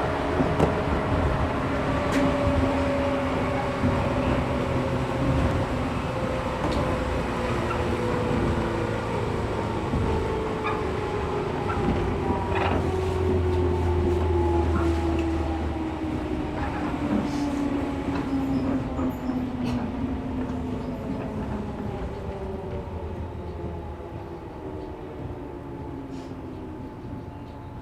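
Interior running sound of a 113 series 1500 subseries resistance-control electric train slowing down: the traction motor and gear whine falls steadily in pitch as speed drops, over the rumble of the wheels on the rails with a few knocks from the track. It grows quieter toward the end, as the train nears a stop.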